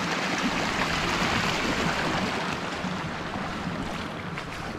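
Steady rush of water pouring over a waterfall into a creek, slowly growing quieter toward the end.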